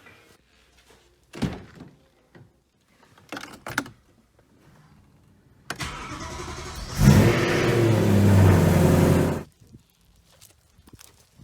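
A few light knocks, then the starter cranks for about a second before the 2009 BMW E92 M3's S65 4.0-litre V8 fires on a cold start, flaring loud and settling as the revs drop, then cuts off suddenly.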